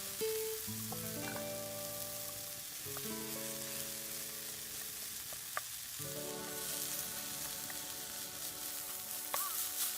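Food sizzling in a frying pan over a wood fire, a steady hiss, with one sharp tap about halfway through. Background music of held notes that change every second or two plays over it.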